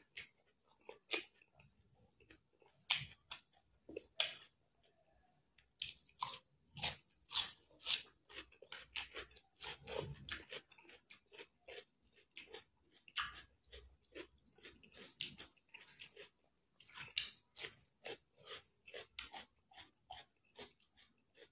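Close-miked eating sounds of a man chewing mouthfuls of rice taken by hand: wet chewing and lip smacks, heard as many short, sharp, irregular clicks.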